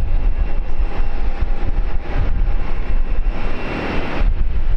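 Jet aircraft engines running with a steady whine over a low rumble, heavy wind buffeting the microphone.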